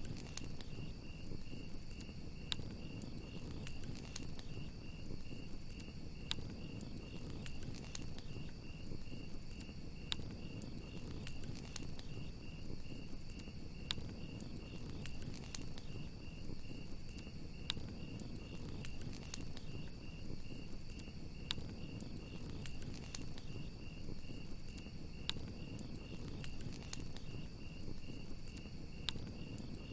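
Crickets chirping in a steady, evenly pulsing trill over a crackling wood campfire, with scattered sharp pops from the fire and a low rumble of flames underneath.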